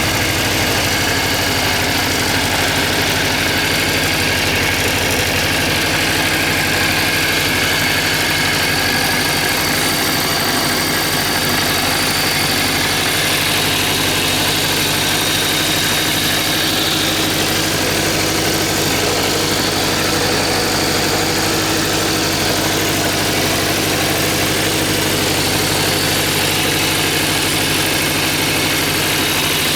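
Suzuki GSX400F's air-cooled inline-four engine idling steadily at an even pitch.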